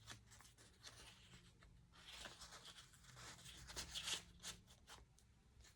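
Near silence with a few faint paper rustles, a handmade journal's magazine-paper pages being handled, mostly in the second half.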